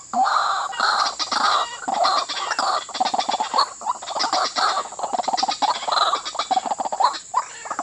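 White-breasted waterhen calling: a loud, continuous run of short, harsh, rapidly repeated notes.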